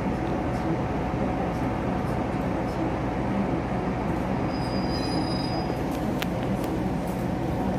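Taiwan Railways passenger train running: a steady rumble of wheels on track with a faint steady hum, a brief high squeal about two-thirds of the way through and a single sharp click just after it.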